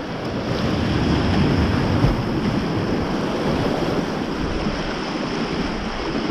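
Rushing, churning white water, with wind buffeting the microphone.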